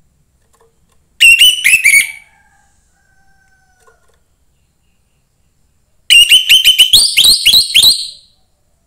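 Young wild-caught orange-headed thrush singing: a short loud burst of rapid shrill notes about a second in, then a longer burst of about a dozen quick notes about six seconds in.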